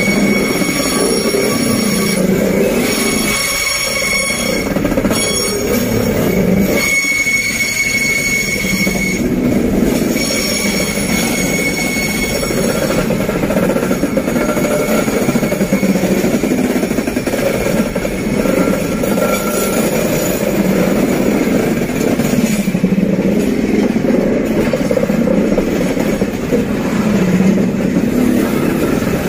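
Freight train boxcars rolling past uphill, steel wheels rumbling on the rails with a rhythmic rise and fall. High wheel squeal rings through the first half and returns off and on until about two-thirds of the way in.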